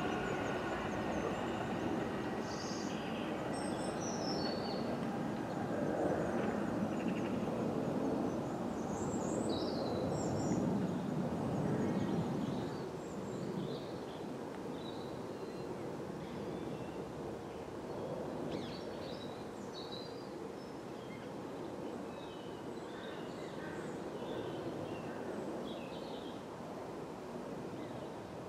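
Class 455 electric train rumbling on the track as it runs away from the platform. The rumble drops away suddenly after about twelve seconds, leaving quiet outdoor ambience with birds chirping.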